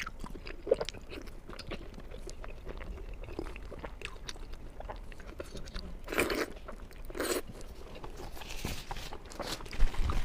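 A person biting and chewing crunchy food, with many small crunches, two louder bites around the middle and a thump near the end.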